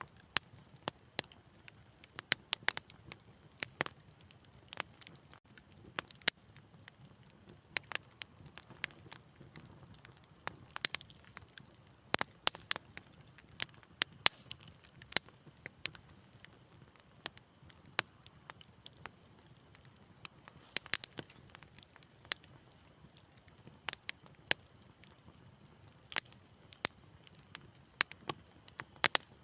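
Wood fire crackling: sharp, irregular pops and snaps, several a second at times, over a faint low hiss of the burning.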